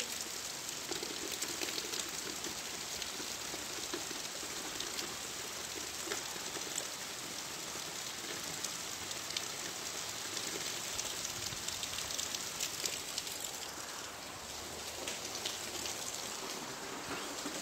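Steady rain falling on wet ground and pavement, a continuous hiss with many small drop ticks.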